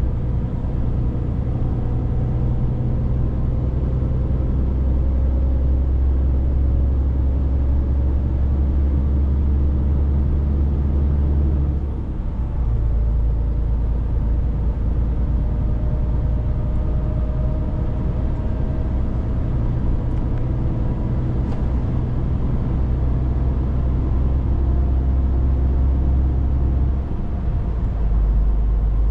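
Scania 500S truck engine running under way, a steady deep drone whose pitch climbs slowly, broken by a brief dip and change of note about twelve seconds in and again near the end, typical of gear changes.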